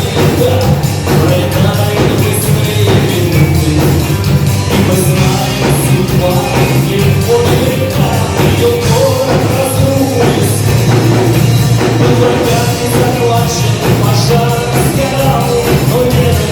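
Live rock band playing an instrumental passage: bass and drums with cymbal hits, under a melodic lead line, and no lyrics sung.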